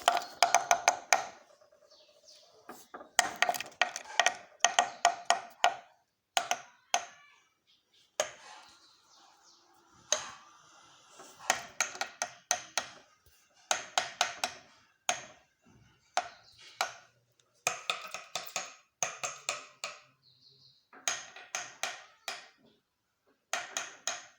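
Woodpecker pecking in rapid bursts of sharp taps, each burst lasting a second or two with short pauses between, the taps ringing slightly.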